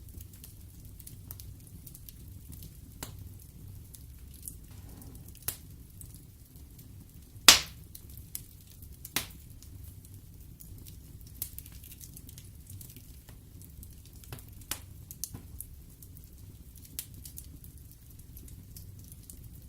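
Wood fire burning in an open fireplace: a low steady rumble of flames with scattered crackles and pops, the loudest pop about seven and a half seconds in.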